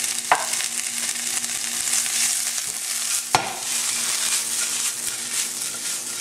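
Shredded turkey sizzling steadily in hot olive oil in a nonstick pan, with two sharp knocks as the pan is tossed, about a third of a second in and again just past three seconds.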